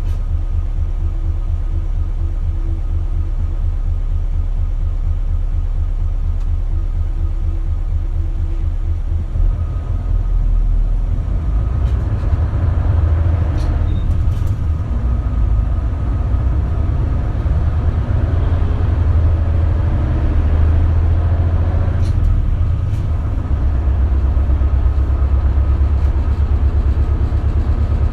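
Isuzu KL-LV280L1 city bus diesel engine heard from inside the cabin. It first runs with an even low throb, then about ten seconds in it picks up and works harder as the bus gets under way, changing note again a little past twenty seconds in. Faint clicks sound now and then.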